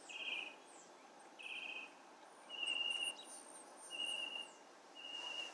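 Bird calls: two short buzzy notes, then three clear whistled notes at one pitch, about a second apart, with thin high chirps above them in the middle.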